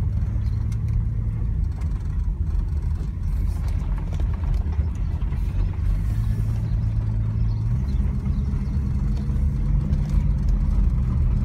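Valiant CL Charger's engine and road noise heard from inside the cabin while cruising, a steady low drone whose pitch steps up a little about eight seconds in.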